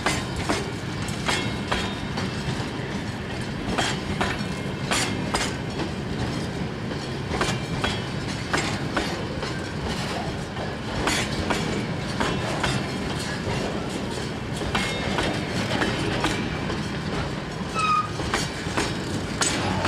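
Freight train of loaded grain hopper cars rolling past, wheels clicking irregularly over rail joints over a steady rumble. Brief wheel squeals near the end.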